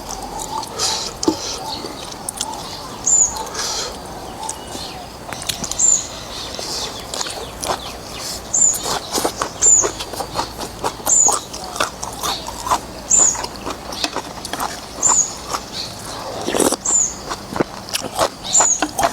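Eating sounds of noodle soup: wet smacks, slurps and chewing clicks. A short high chirp repeats every second or two.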